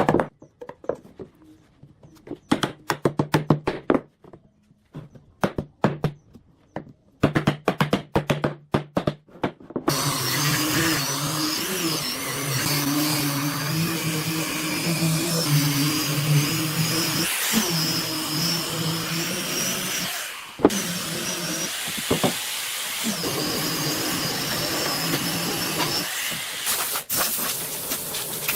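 Quick, irregular knocks and taps on wood for about ten seconds, then a power tool running loudly and steadily with a low hum and a wavering whine, briefly easing off twice.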